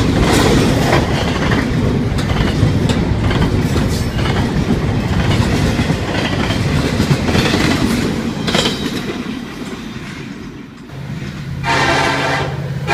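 Freight train cars rolling past, their wheels clicking over the rail joints, the sound fading away after about nine seconds. Near the end a diesel locomotive's air horn starts to blow and is held.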